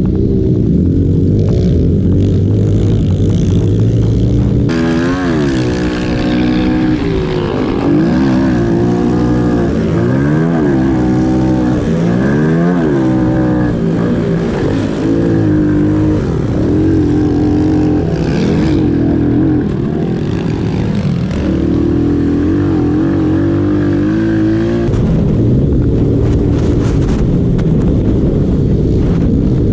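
Small single-cylinder pit bike engines racing, revving up and down over and over as the riders work the throttle and shift. The engine note changes about five seconds in and settles again near the end.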